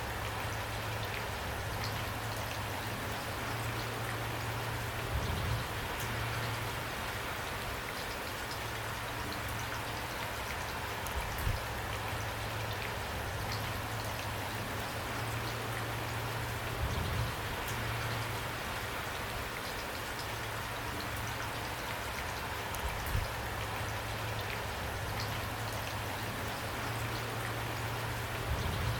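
Steady rain falling, with a brief low thump about every six seconds.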